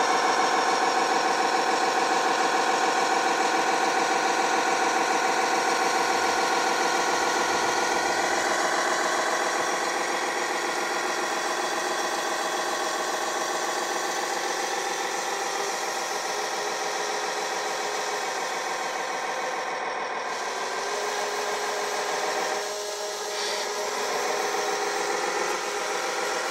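Radio-controlled model construction machine's motor running steadily, a dense whine that eases slightly about ten seconds in and dips briefly near the end.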